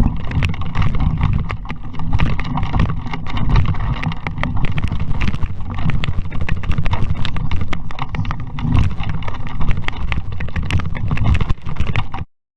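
Wind buffeting the microphone and water rushing past an RS Vareo sailing dinghy under way, with many sharp knocks and rattles from the boat. It cuts off suddenly near the end.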